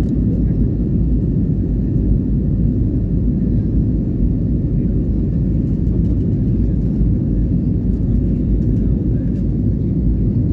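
Steady low roar of an airliner landing, even in level with no rise or fall.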